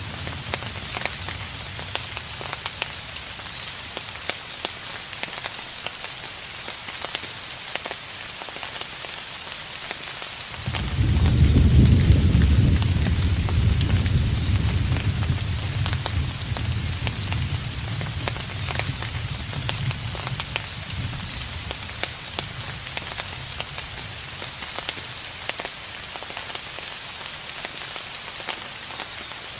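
Steady rain falling throughout. A low rumble at the start dies away, then about a third of the way in a distant roll of thunder starts suddenly, swells briefly and fades slowly over about ten seconds.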